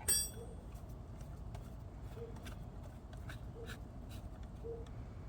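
A metal tool clinks once against metal and rings briefly, followed by faint scattered clicks as a small T-handle wrench turns a short bolt on a dirt bike's frame guard.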